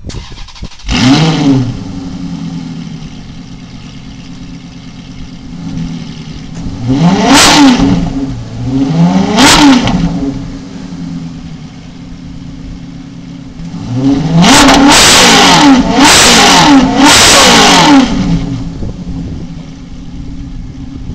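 Ferrari F430's flat-plane V8 blipped through a de-catted race exhaust, falling back to a steady idle between revs. There is one rev about a second in and two more about two seconds apart near the middle. Near the end comes a burst of repeated hard revs lasting several seconds.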